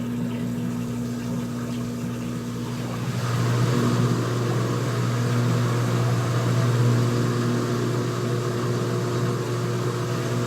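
Front-loading washing machine's drain pump running with a steady hum, pumping water out of the tub. About three seconds in it gets louder and noisier, then holds.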